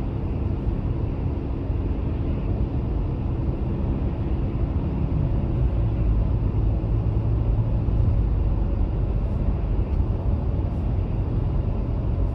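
Car driving: a steady low rumble of engine and road noise, with an engine hum whose pitch shifts about five seconds in.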